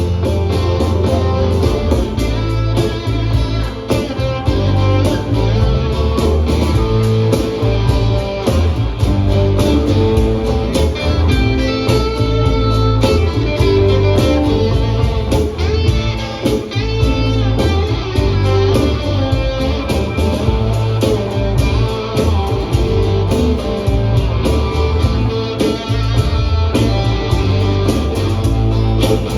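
Live band playing an instrumental passage with guitars, bass guitar and percussion, without singing.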